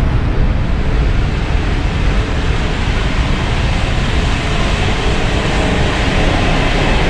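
Running noise inside a moving passenger train coach: a steady rumble of wheels on track and air rushing past.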